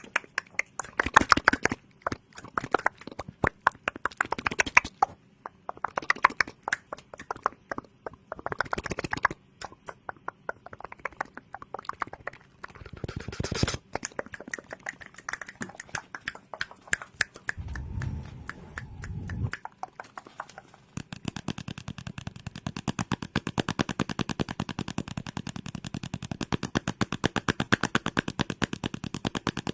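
ASMR trigger sounds: irregular bursts of crackly clicks and taps, with a brief low sound about two-thirds in, then a fast, even run of rapid clicks through the last third.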